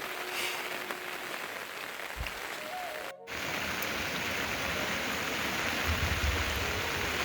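Steady rain falling. Just after three seconds in the sound cuts off briefly, and a louder, even rush of water takes over.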